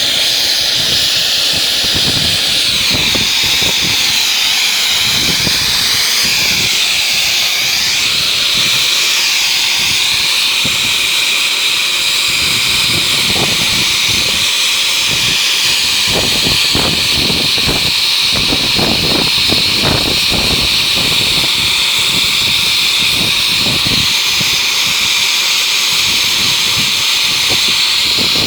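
Steam locomotive's safety valve blowing off: a loud, steady hiss of escaping steam that vents excess boiler pressure.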